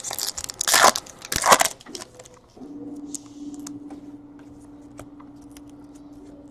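A trading card pack wrapper is torn open and crinkled, making two loud crackling bursts in the first two seconds. A steady low hum follows.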